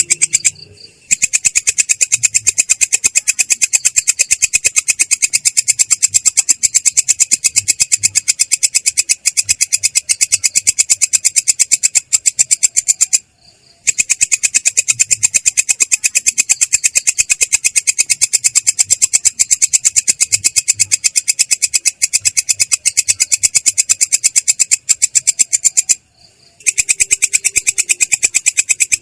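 Belalang kecek (a katydid) calling in a continuous rolling trill of fast, even, high-pitched pulses, with a brief break near the start, another about midway and another near the end.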